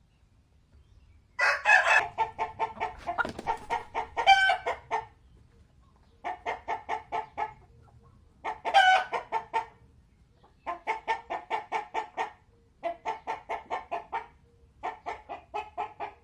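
Chickens clucking in rapid runs of clucks, about six bouts separated by short pauses, with a few louder squawking calls among them.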